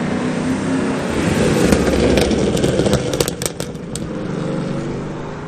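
A car engine revving hard as the car accelerates away, swelling for a couple of seconds, with a quick string of exhaust pops and crackles about two to three and a half seconds in.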